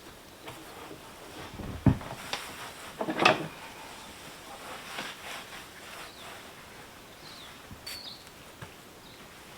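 A few scattered knocks and clatters, the loudest a dull thump about two seconds in and a short clatter about a second later, over a faint steady outdoor background.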